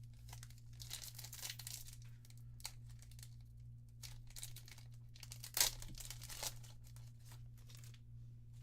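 Crinkling and tearing of a foil trading-card booster pack wrapper, in a few rustling bursts, with the sharpest crackle about five and a half seconds in.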